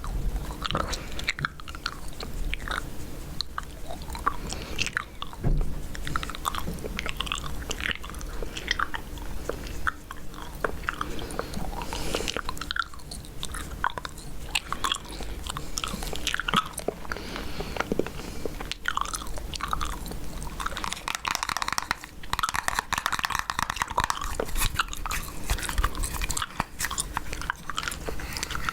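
Chewing gum close to the microphone: many small, irregular mouth clicks and smacks, with a denser stretch of chewing noise near the end.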